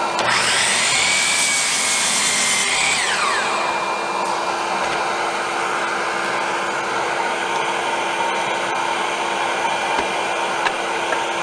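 Hercules dual compound sliding miter saw motor switched on: its whine rises quickly, holds steady for about two and a half seconds, then winds down after the trigger is released. A steady hiss runs underneath.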